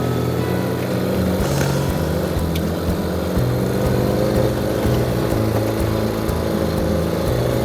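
Ural sidecar motorcycle's flat-twin engine running steadily while riding, its pitch shifting in steps with throttle and gears.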